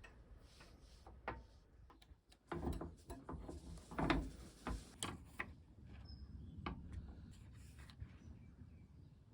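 Scattered clicks and knocks of objects being handled, busiest in the middle, over a faint low rumble.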